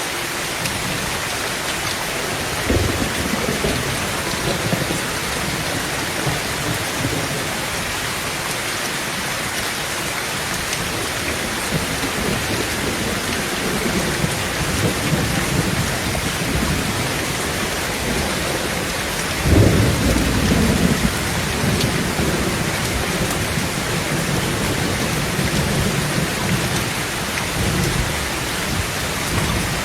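Heavy rain drumming steadily on a tin tent roof, with thunder. A short thunderclap comes about three seconds in, and a louder sudden clap about two-thirds of the way through rolls on into a low rumble for several seconds.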